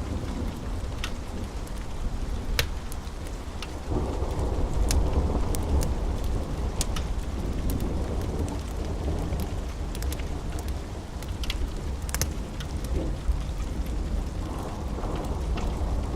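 Steady rain with a continuous low rumble of rolling thunder that swells about four seconds in, over scattered sharp crackles and pops from a wood fire.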